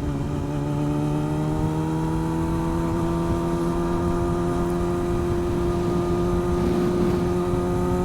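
Motorcycle engine pulling steadily under light throttle, its pitch rising slowly as the bike gains speed, with wind rush underneath.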